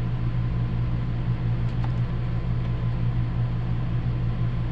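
A steady low machine hum, with a couple of faint clicks about two seconds in.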